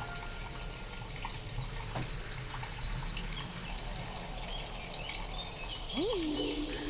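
Steady rain noise, processed to sound alien. A held high electronic tone fades out in the first second, and about six seconds in another tone swoops up, drops back and holds a steady pitch.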